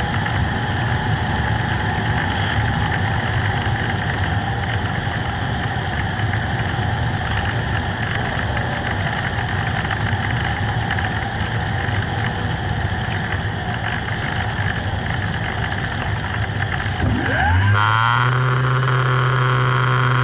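Steady running noise of a radio-controlled FPV plane in flight: the motor and the rush of air. About three seconds before the end it gives way to synthesizer music that comes in on a rising tone.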